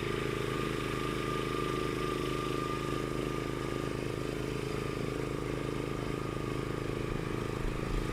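Engine running steadily at constant speed, with a thin steady whine above its hum.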